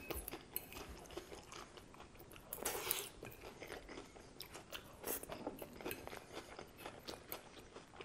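Close-miked chewing and crunching of a mouthful of iceberg lettuce salad: many small crisp crackles, with louder crunches about three seconds in and again around five seconds.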